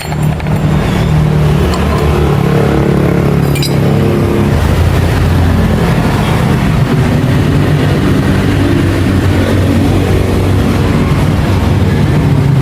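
Honda automatic scooter's engine running steadily, its pitch shifting slightly up and down.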